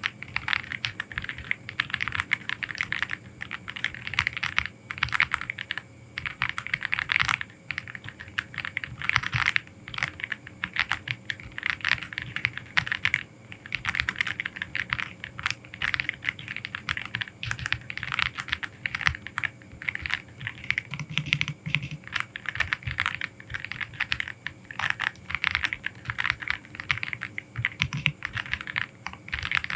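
Aula F87 Pro mechanical keyboard being typed on: a fast, steady run of key clicks with a few brief pauses.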